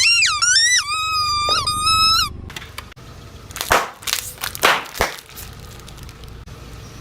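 Objects being crushed under a car tyre: a loud, high squeal that wavers in pitch for about two seconds, then a few sharp crunching cracks over a low rumble.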